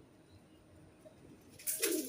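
Pigeon cooing: one low, falling coo near the end, with a brief scratchy rustle at the same moment.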